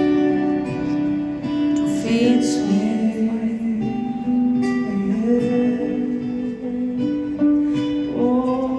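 Live acoustic guitar music from a slow pop song, strummed and picked, with a voice singing long held notes.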